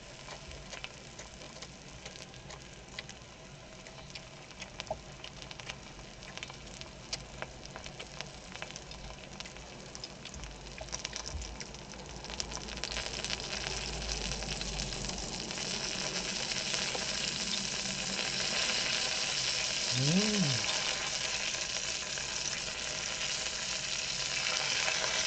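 Pork belly sizzling as it grills, with scattered crackles of spitting fat. The sizzle builds and grows louder about halfway through.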